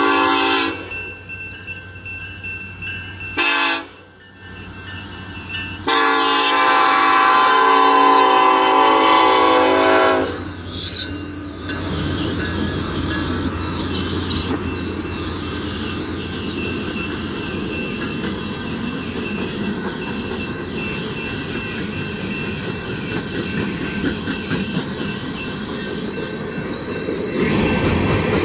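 BNSF freight train's locomotive horn blowing for a grade crossing: several blasts in the first eleven seconds, the longest held about four seconds. The locomotives and coal hopper cars then rumble steadily past the crossing.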